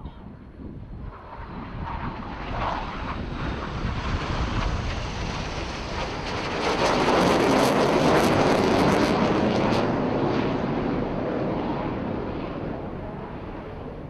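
KAI T-50B jets of the Black Eagles aerobatic team flying past, growing louder to a peak about halfway through and then fading away.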